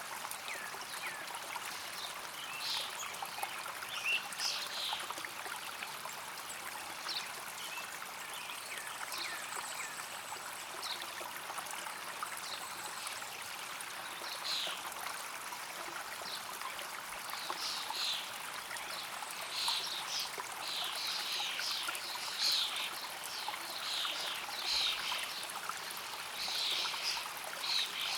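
Water flowing steadily in a stream, with birds giving short chirps over it, more often in the second half.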